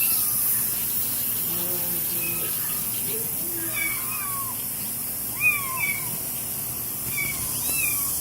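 Young kittens mewing, a string of short, thin, high mews that rise and fall, several a second at times, over a steady hiss.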